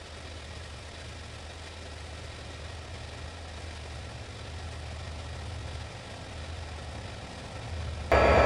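Large engine idling with a steady low rumble that slowly grows a little louder. About 8 seconds in, a much louder sound with several held tones cuts in suddenly.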